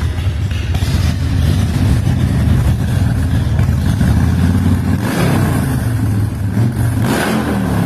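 S&S 107 cubic-inch V-twin of a 2002 American IronHorse Outlaw chopper running, revved up and back about five seconds in and again near the end.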